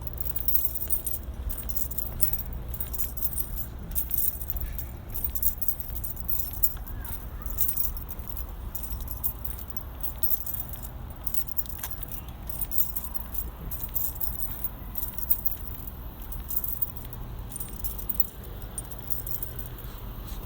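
A bunch of janitor keys worn on the belt jangling with each walking step, in irregular shakes every half second or so, over a low steady rumble.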